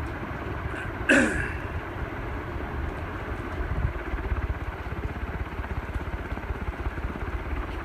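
Union 56-inch industrial ceiling fan running on high, its airflow buffeting the microphone as a steady low, fluttering rumble. About a second in, a short, loud sound falls quickly in pitch.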